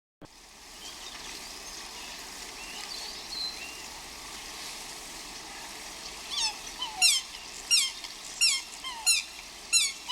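Birds calling in a steady outdoor background: faint scattered chirps at first, then from about six seconds a bird gives a loud series of sharp calls, each falling in pitch, about one and a half a second.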